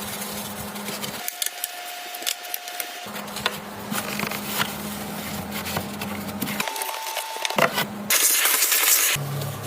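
Repeated small clicks and clinks of tools and parts being handled, in short cut-together segments, some with a steady low hum underneath. A loud hiss lasts about a second near the end.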